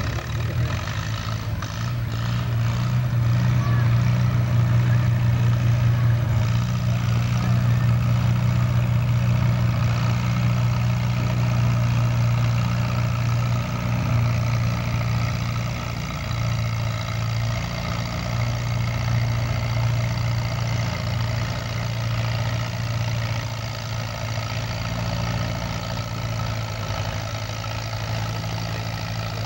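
Antique Farmall tractor's engine running steadily under load, pulling the weight sled at a tractor pull. Its pitch holds level, slightly louder in the first half and easing a little towards the end.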